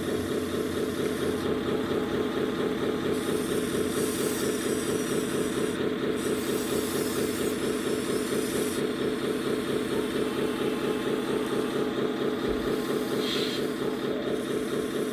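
Simulated truck diesel engine idling steadily with a fast, even pulse, played by the sound unit of a 1/14-scale RC truck.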